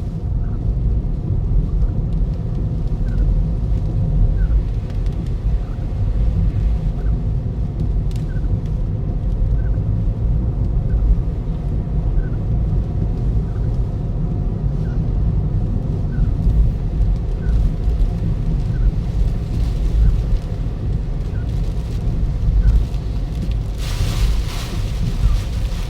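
Toyota Ractis running on the road, a steady low rumble of road and engine noise, with faint ticks about once a second. About two seconds before the end a rushing hiss of wind or rain swells up over it.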